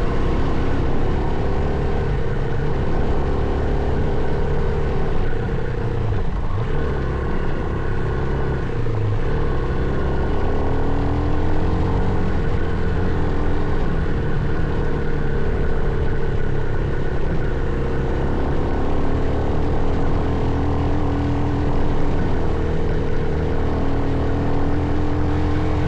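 Motocross bike engine running while riding a dirt trail, its pitch rising and falling with the throttle, with wind and rough-ground noise throughout.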